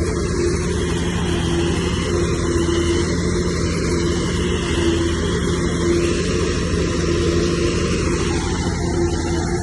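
Heavy diesel engine of earthmoving machinery running steadily, with a low drone and a mid-pitched tone that comes and goes.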